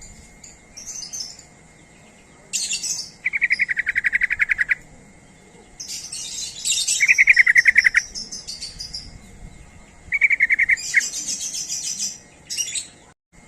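Yellow-vented bulbul (trucuk) song: three fast, rattling trills on one pitch, each about a second long, mixed with scratchy high chattering notes.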